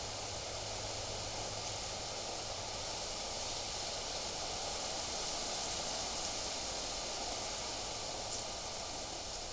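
Steady wind blowing through foliage, an even hiss with no clear bird calls.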